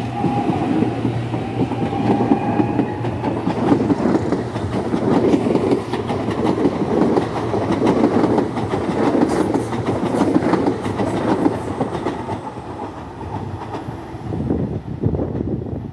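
Electric commuter train passing close by, its wheels clattering over the rail joints in a steady clickety-clack. The noise eases off near the end.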